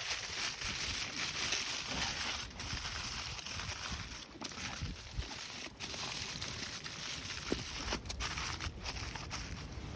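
Wind blowing steadily, a rushing noise with low rumble, dropping away for a moment several times.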